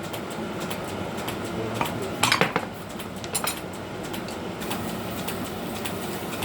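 Scattered light clinks and knocks of small hard objects, like crockery or small metal pieces being handled, with a louder cluster of clinks about two and a half seconds in.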